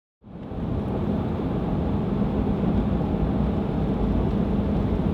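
A vehicle driving: steady road and engine noise with a low constant hum.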